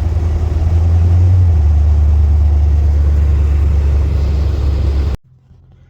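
Car driving: a loud, steady low rumble of engine and road noise. It cuts off suddenly about five seconds in, leaving only a faint low hum.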